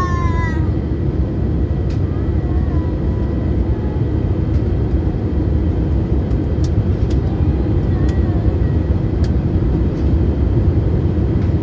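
Steady cabin noise inside an Airbus A320neo airliner: an even, unchanging rush from engines and airflow, heaviest in the low end, with a faint steady whine on top.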